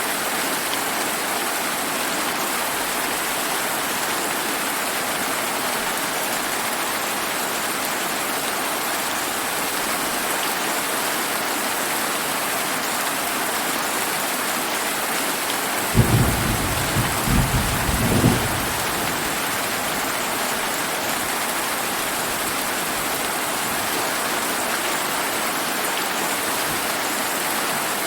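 Steady rain hiss, with one thunderclap about sixteen seconds in: a sudden crack followed by about two seconds of rolling rumble.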